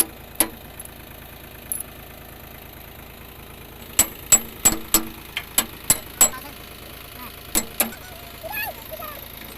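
Tractor engine idling steadily under sharp metal-on-metal clanks: one just after the start, a run of about eight at roughly three a second in the middle, and two more near the end, each ringing briefly.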